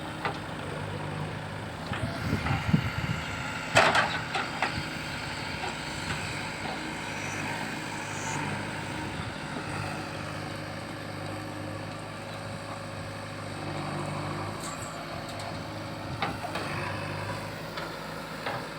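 Heavy diesel engine running steadily, with a few knocks and one sharp loud clank or hiss about four seconds in.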